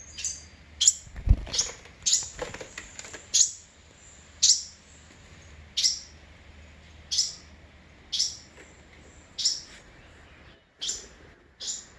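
Fledgling bird chirping: a dozen or so short, high cheeps that drop in pitch, about one a second. A single low bump about a second in.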